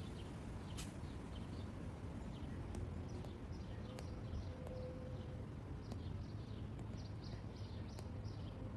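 Small birds chirping in quick clusters of short high chirps over a steady low background rumble, with a few faint sharp ticks about once a second in the second half.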